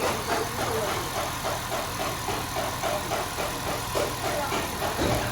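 Car engine running steadily at idle, with a regular pulsing about four to five times a second.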